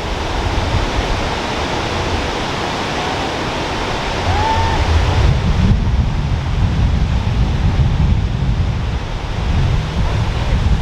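Strong storm wind rushing in, a loud steady roar like a freight train, with gusts buffeting the microphone that grow heavier about four seconds in.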